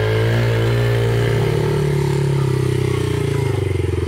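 Dirt bike engine running steadily, its pitch wavering slightly as the bike is ridden.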